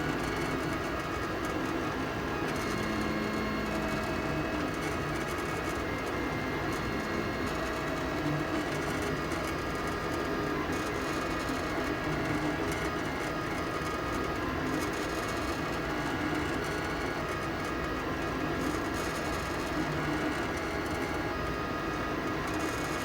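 FLSun delta 3D printer printing the first layer of a test print: its stepper motors sing in short notes that change pitch every second or so, over a steady hum of fan noise.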